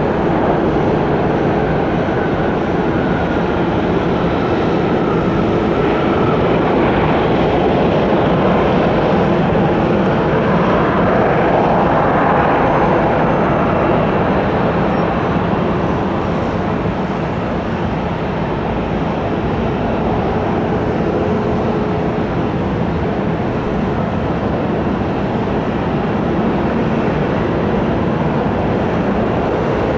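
Boeing 777-200ER jet engines during a landing: a steady, loud rush of engine noise that swells to a peak about twelve seconds in, as the airliner passes closest, then eases a little.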